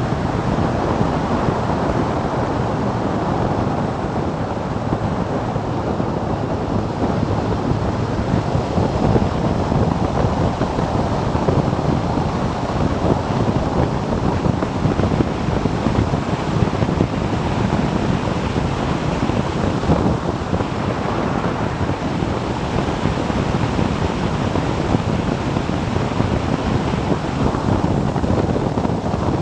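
Wind rushing over the microphone of a camera on a moving motorcycle: a steady, dense noise with no clear engine note.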